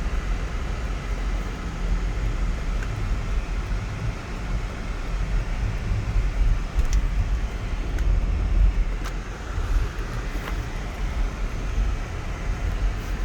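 Cabin noise of a 2004 Lexus GX 470 being driven: a steady low rumble of road and engine noise, with a few faint clicks.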